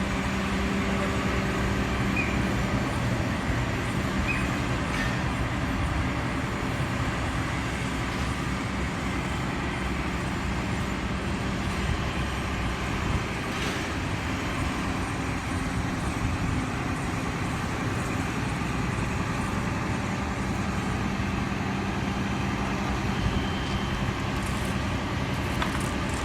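Steady motor vehicle engine and road noise, with a low hum and no sharp events.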